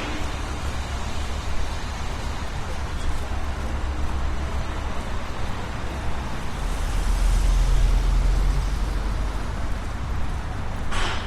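Street traffic going by, a steady road noise with low engine rumble. One vehicle's low engine drone swells past, loudest from about seven to nine seconds in.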